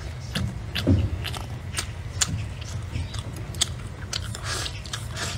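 Close-up mouth sounds of a person biting and chewing meat off a braised pork bone: a run of irregular wet smacks and clicks.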